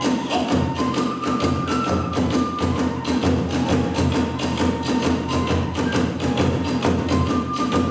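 Kagura hayashi accompaniment: a taiko drum and hand cymbals keep a fast, even beat while a bamboo flute plays a high melody that moves in held steps.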